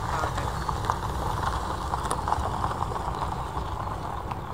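Steady rumble of a departing Boeing 737-800 airliner's jet engines climbing away after a long takeoff run, mixed with wind buffeting the microphone.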